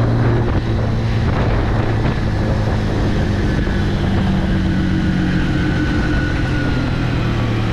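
Motorcycle engine running at a steady pace, with wind noise on the microphone.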